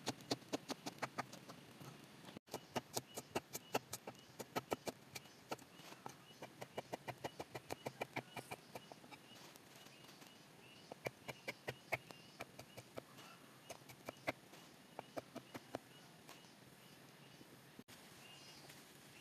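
Runs of sharp utensil knocks from food preparation, about three to four a second, pausing briefly near the middle and thinning out near the end. Birds chirp faintly throughout.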